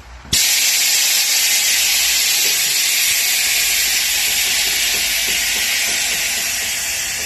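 A loud, steady hiss of escaping air that starts suddenly just after the start and slowly fades: air-bag suspension being let down.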